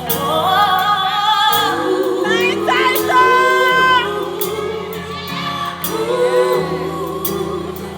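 Live R&B band playing with female vocals singing long, wavering held notes and runs, in a gospel style.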